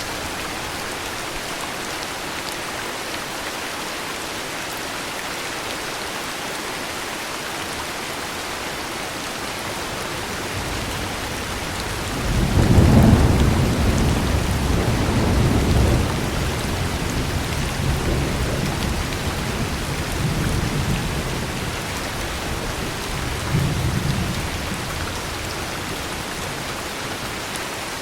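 Steady heavy rain, with a long roll of thunder that builds about halfway through, is loudest near its start and rumbles on for several seconds, followed by a shorter, smaller rumble a little later.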